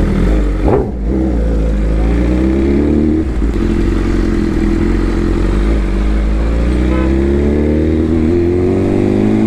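Sportbike engine pulling under acceleration on the move. Its pitch climbs steadily, drops once about three seconds in at a gear change, then climbs slowly again, with a quick rise and fall in revs under a second in.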